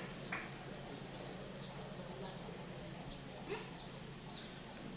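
Forest insects, such as crickets, keep up a steady high-pitched drone. Short, high chirps repeat over it about every half second to second.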